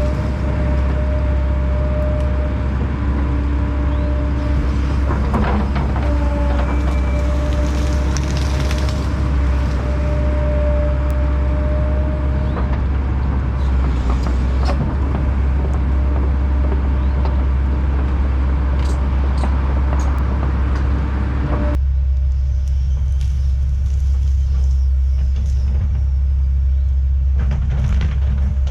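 Heavy diesel land-clearing machinery running steadily with a deep, loud rumble, with a steady whine over it for the first part. About three-quarters of the way through, the higher sounds drop away abruptly, leaving the low rumble.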